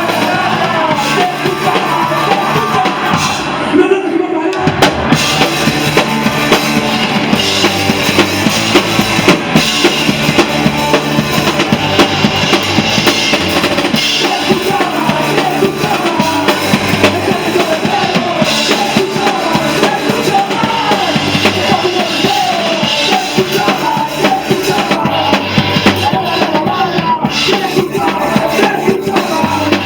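Live punk rock band playing loud, with drum kit, distorted guitars and bass; a brief drop-out about four seconds in before the full band comes back in.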